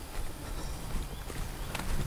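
Footsteps walking on a forest path: a few separate steps, with a faint bird chirp about a second in.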